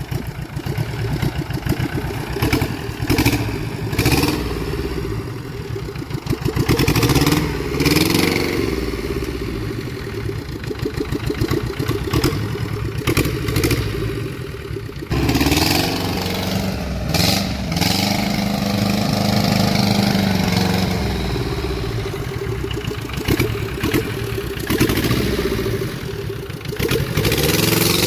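Tata Ace engine of a homemade small tractor running, its speed rising and falling several times, with short clattering knocks through it.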